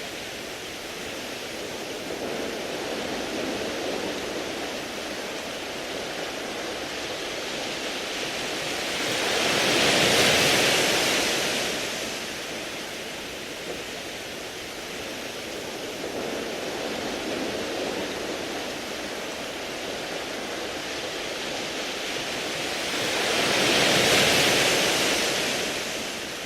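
Sea waves washing onto a beach of round pebbles: a steady surf wash with two larger waves swelling and fading, peaking about ten seconds in and again near the end, each with a hissing rush over the stones.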